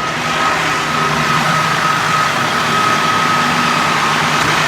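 A motor vehicle engine idling steadily, with a constant high-pitched tone over it.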